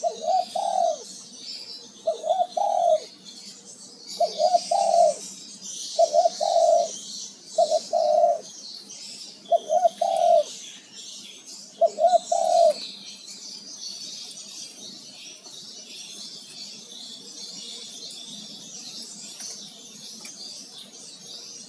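Male spotted dove cooing: a short phrase of several coos repeated about every two seconds, stopping about thirteen seconds in. High twittering from small birds runs underneath throughout.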